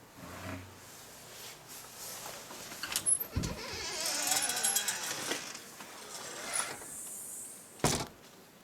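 A door being opened and shut: latch clicks and knocks about three seconds in, a scraping, rushing sound for a couple of seconds, then a sharp knock near the end.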